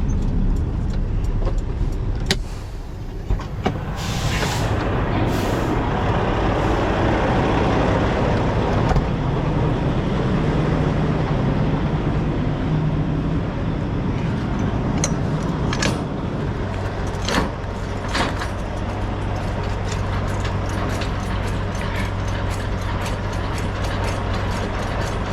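Semi-truck diesel engine running steadily as the rig eases back onto the dock, with a couple of short air hisses from the air brakes a few seconds in and scattered clicks.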